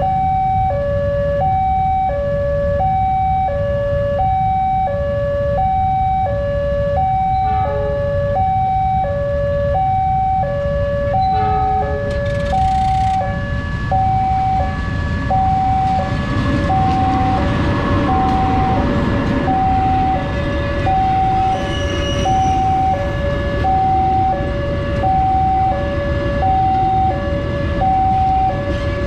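Railway level crossing warning alarm: an electronic two-tone signal alternating a higher and a lower tone, each about half a second, sounding steadily as a warning that a train is approaching and the barriers are closed. Road traffic rumbles underneath, with a louder passing vehicle noise around the middle.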